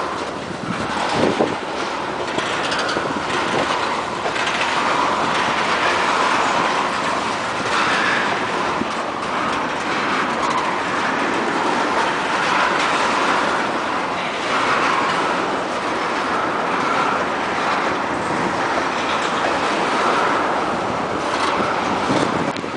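Freight train cars rolling past at close range: a steady wheel-on-rail roar with occasional clacks from the wheels.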